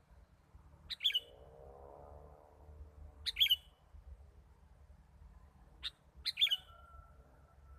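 Sooty-headed bulbul (kutilang) calls: four short, sharp chirps spaced a few seconds apart, the last one trailing off into a thin, steady whistled note.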